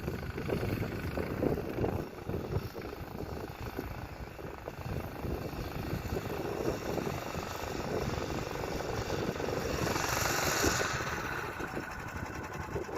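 Blizzard wind buffeting the microphone in uneven gusts, with a stronger hissing gust about ten seconds in.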